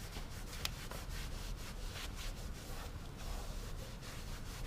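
Cleaning towel rubbing and wiping over engine-bay parts around the valve covers and coil packs, in a series of soft scrubbing strokes, with a short click a little over half a second in.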